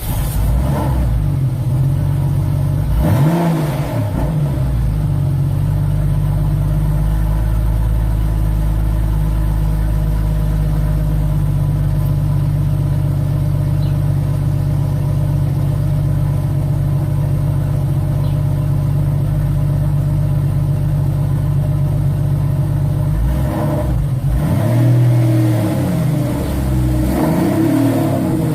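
Porsche 993's air-cooled flat-six engine, breathing through stock mufflers fitted with welded bypass tubes that route the exhaust around the baffles. It catches at the start, is blipped once about three seconds in, idles steadily, then is revved several times near the end.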